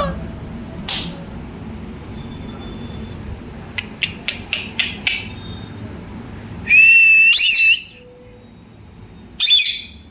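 Pet parrot whistling: a few sharp clicks around the middle, then one long steady whistle about two-thirds of the way in, and a short wavering call near the end.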